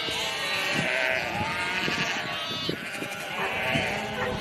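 Several sheep bleating, their calls overlapping one another with hardly a break.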